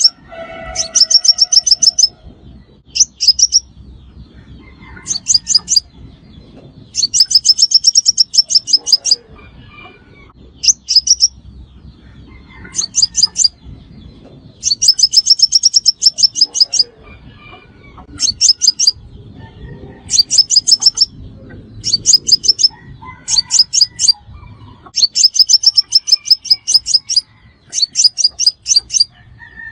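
Sunbird song: rapid trills of sharp, high-pitched ticking notes, repeated in loud bursts of half a second to two seconds with short gaps between them.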